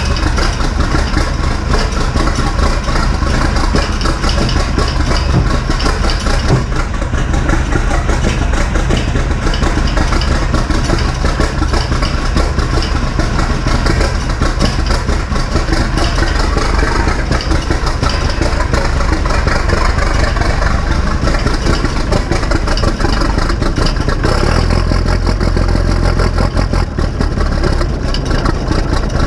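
Massey Ferguson 699 tractor's turbocharged six-cylinder diesel engine running steadily at idle after a cold start, its low rumble growing heavier near the end.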